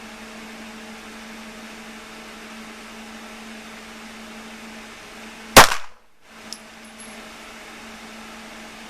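A single semi-automatic pistol shot, loud with a short echoing tail, and a faint click about a second later; the pistol stops with a jam after this shot. A steady ventilation hum runs underneath.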